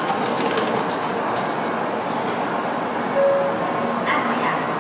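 Shinkansen train running past the platform: a steady rushing rail noise. A short steady tone sounds about three seconds in.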